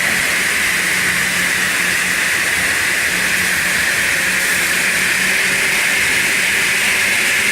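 Steady, even hissing noise with a faint low hum underneath.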